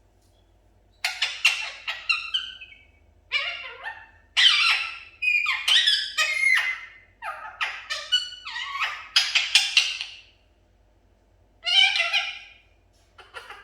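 Pet budgerigar chattering: quick runs of squeaky, warbling chirps in bursts with short gaps, starting about a second in, pausing about ten seconds in, then starting again near the end.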